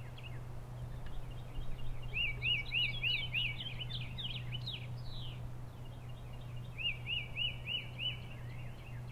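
Birdsong: a songbird sings two runs of about six quick, clear whistled notes, one near the start and one near the end, with other bird chirps between them. A steady low hum runs underneath.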